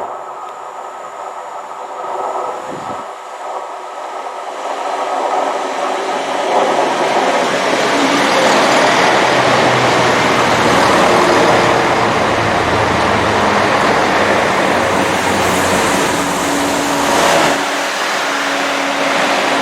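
A train passing, its rushing noise building from about five seconds in and staying loud until shortly before the end.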